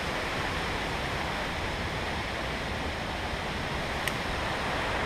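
Steady rush of creek water, a constant hiss with no breaks. A single faint tick about four seconds in.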